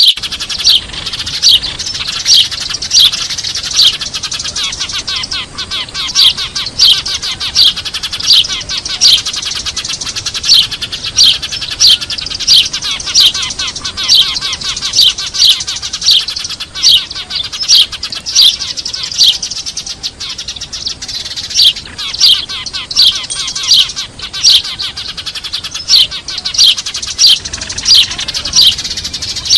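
Eurasian tree sparrows chirping noisily: loud, sharp chirps about twice a second, in runs with short breaks, over the constant chatter of many more sparrows.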